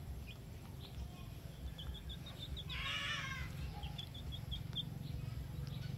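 Outdoor animal sounds: a bird chirping in quick runs of short high notes, twice, and about three seconds in a brief pitched animal call, over a low steady rumble.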